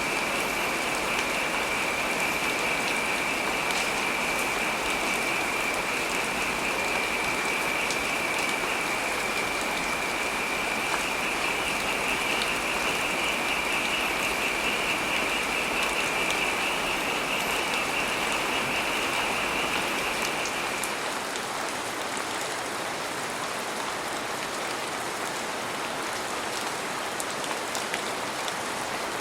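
Heavy rain falling steadily, an even hiss of drops on surfaces. A steady high trill runs over it and stops about two-thirds of the way through, where the rain becomes a little quieter.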